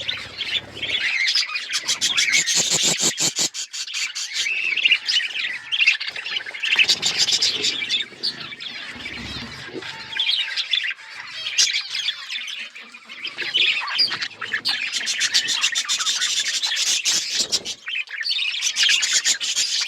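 Several budgerigars chattering and chirping together, with rapid rattling trills and harsh squawks.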